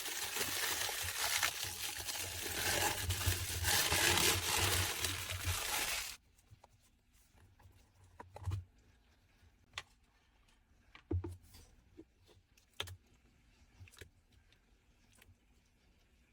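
Hands working fake-water slime: a dense crinkling, crackling noise for about six seconds that cuts off abruptly, then scattered soft clicks and squelches.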